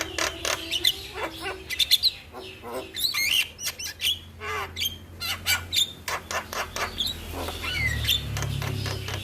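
Javan mynas chattering in a rapid, busy run of clicks, harsh chirps and short up-and-down whistles.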